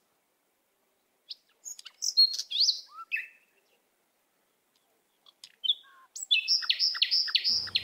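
Songbirds chirping and whistling: a few quick gliding calls a little after a second in, then after a pause a quick run of about six repeated chirps near the end.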